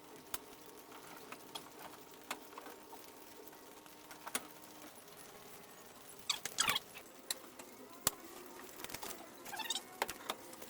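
Scattered light clicks and taps, with a couple of short chirping sounds about six and a half and nine and a half seconds in.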